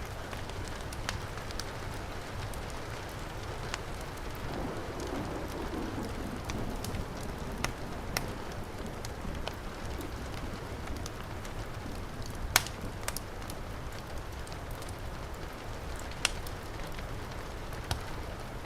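Heavy rain falling steadily, mixed with a wood fire in a fireplace crackling: scattered sharp pops over the rain, the two loudest in the last third.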